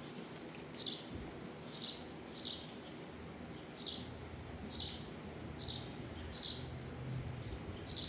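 A small bird chirping repeatedly: short, high, falling chirps about once a second, over faint outdoor background noise.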